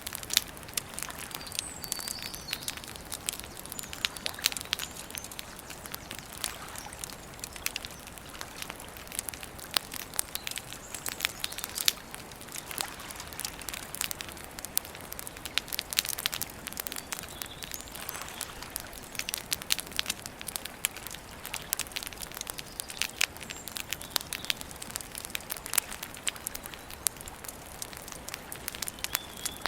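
Wood campfire crackling steadily, with frequent sharp pops and snaps. A bird chirps briefly a couple of times.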